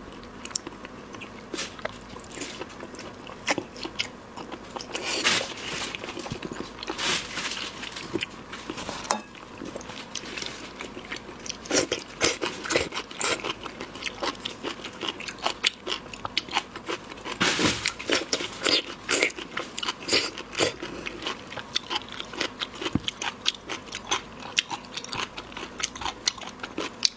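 Seafood being eaten: repeated bites, crunches and chewing with many sharp clicks, in denser clusters at several points.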